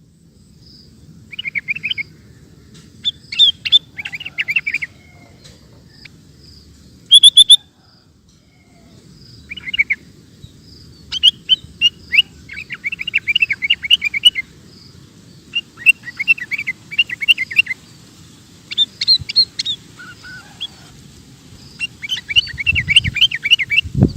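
Sooty-headed bulbul (kutilang) singing: repeated bursts of quick, chattering notes, each phrase lasting from under a second to about three seconds, with short pauses between. The loudest is a brief, sharp burst about seven seconds in.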